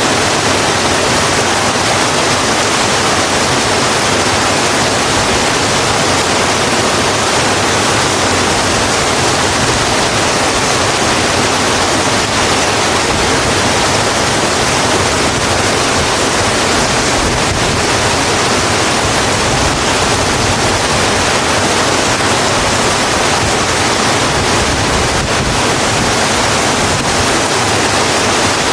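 Steady heavy rain falling, an even unbroken hiss of water with no distinct drops or thunder.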